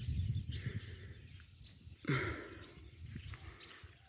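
Birds chirping in short, repeated high calls, over a low rumble on the microphone that is loudest in the first two seconds, with a brief louder burst about two seconds in.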